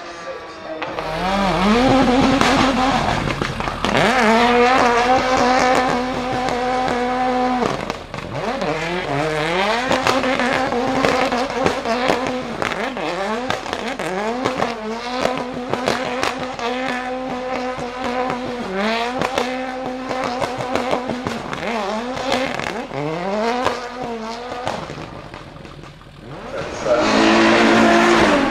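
High-performance car engine revving hard over and over: quick rises in pitch, each held at a high, steady note before dropping and climbing again. A lull near the end, then one last loud rev.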